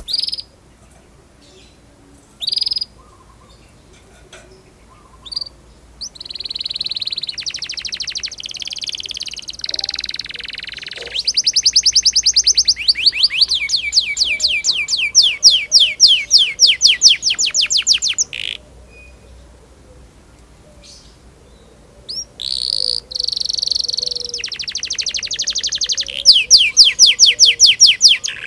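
Domestic canary singing: a few single high chirps, then long song phrases of rapid repeated notes rolled into fast trills. The song breaks off for a few seconds past the middle, then resumes with more trills.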